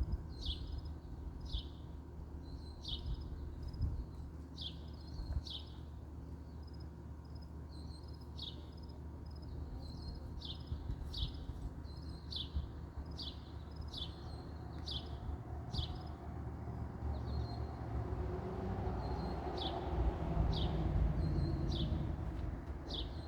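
A bird calling over and over, short falling chirps about one or two a second, over a low background rumble that grows louder near the end.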